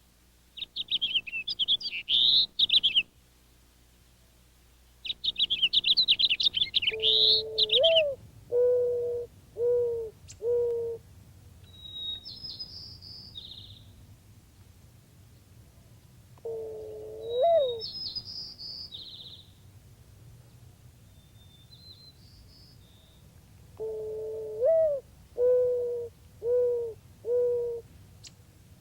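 Backyard birds calling. A dove coos low, twice in a phrase of one long note rising at the end followed by three short coos, and once as a single long coo. Higher-pitched chirping and rapid trills from smaller birds come between the coos, busiest in the first several seconds.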